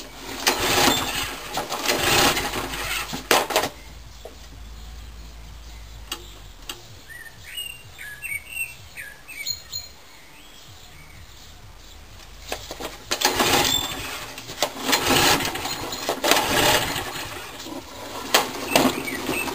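Old petrol lawnmower engine being cranked over in two runs of start attempts, a few seconds near the start and again over the last several seconds, without catching; it won't restart after being shut down, which the owner puts down to the fuel. A bird chirps a few times in the lull between the attempts.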